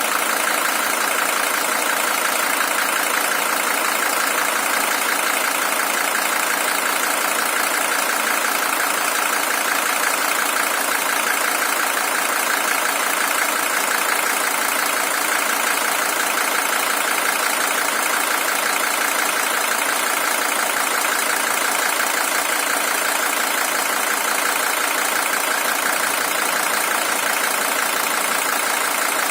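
Mercedes-Benz OM617 five-cylinder diesel engine idling steadily, on its original engine with 620,000 km.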